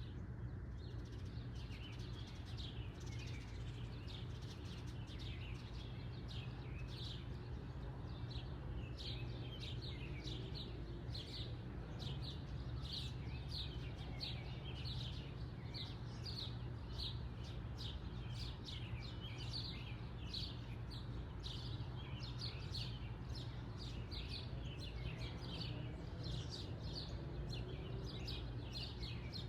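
Small birds chirping in quick, irregular short notes, several a second, over a steady low background hum.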